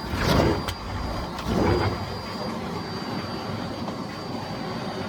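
Miele Blizzard CX1 bagless cylinder vacuum cleaner running, a steady rushing noise with a thin high motor whine. It swells louder twice in the first two seconds.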